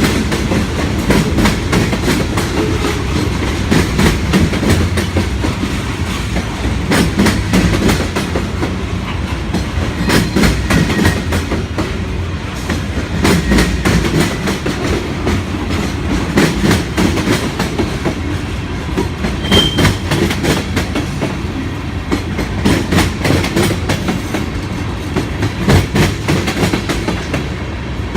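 Freight cars of a passing mixed manifest train rolling by with a steady low rumble, their wheels clicking over the rail joints in repeated clusters.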